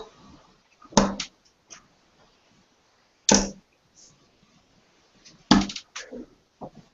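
Three darts thrown one after another, each striking a dartboard with a sharp thud about two seconds apart, with a few fainter knocks in between.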